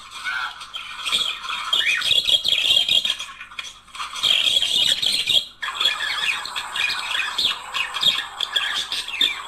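A pair of budgerigars chattering and warbling without pause, a dense run of squawks, chirps and squeaks. There is a short lull about four seconds in.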